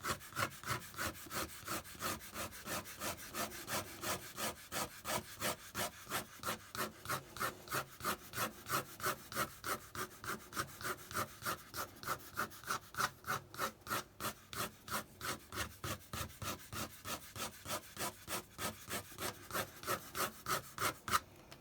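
An ink pen scratching across watercolour paper in quick, repeated short strokes, about three to four a second, as feather lines are drawn in. It stops just before the end.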